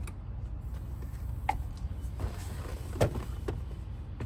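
A few sharp clicks and knocks of hand tools working on a steering column as screws are taken out, the loudest about three seconds in, over a steady low hum.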